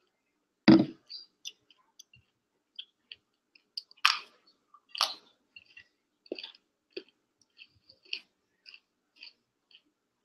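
A plastic drink bottle set down on a table with a thump about a second in, then a run of short, sharp crunches and snaps as broccoli is chewed and its florets are broken apart by hand.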